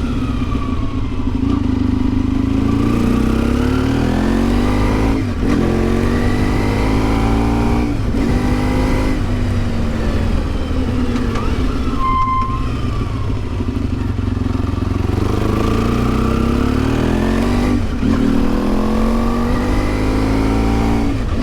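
Yamaha XTZ 750 Super Ténéré parallel-twin engine heard from the rider's seat, revs climbing and dropping again and again through the gears, with brief breaks at the shifts. A short beep sounds about halfway.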